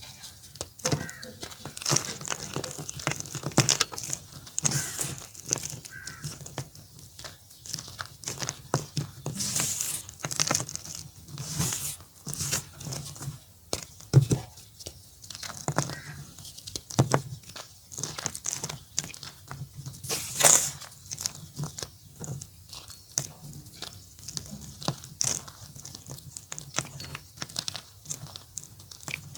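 Gym chalk being crumbled: a dense, irregular run of dry crackles and crunches, with a few sharper cracks among them.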